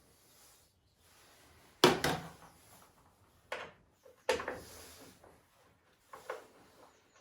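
Handling knocks and clatter of hard parts being moved during disassembly, about five separate knocks with the loudest about two seconds in.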